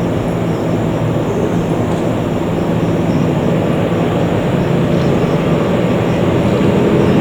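Four-engine Airbus A340-300 airliner's CFM56 turbofans running with a steady low hum, slowly growing louder.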